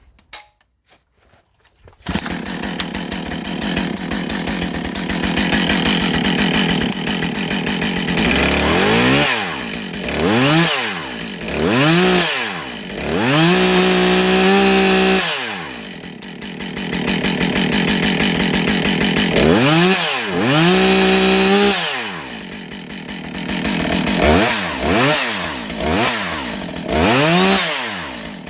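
Husqvarna 565 two-stroke chainsaw starting up on its first start about two seconds in and running, then revved repeatedly from about eight seconds. The pitch rises and falls with each rev, and a few revs are held high for a second or two.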